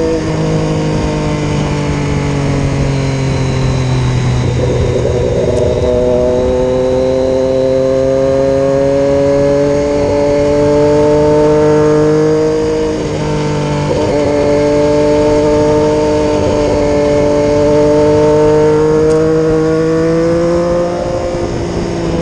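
Triumph Daytona 675R's 675 cc inline-three engine running under way at road speed, heard from the bike over wind and road noise. The engine note drifts slowly up and down, with brief breaks about four seconds in and again around thirteen seconds.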